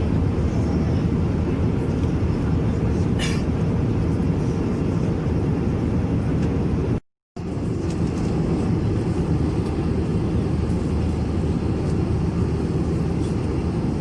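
Steady cabin drone of an Airbus A321-200 in flight: engine and airflow noise heard from inside the passenger cabin, deep and even. It cuts out completely for a split second about halfway through.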